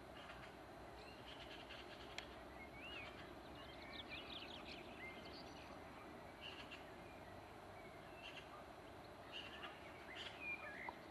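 Steady, faint background noise with small birds chirping and twittering on and off, mostly between about one and five seconds in and again near the end.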